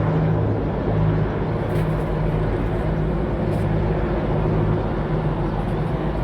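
Helicopter running with a steady low drone.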